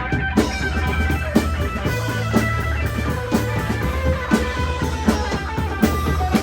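Live rock band playing: guitar notes ring over a drum kit keeping a steady beat, with a strong hit about once a second.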